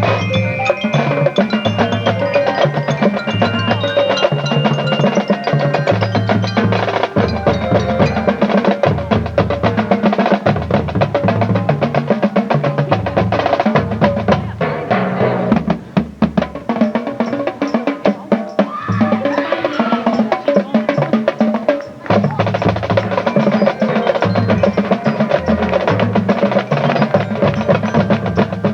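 High school marching band playing its competition show, with the drumline and mallet percussion prominent over the winds and a pulsing bass line. The music drops out briefly twice just past the middle.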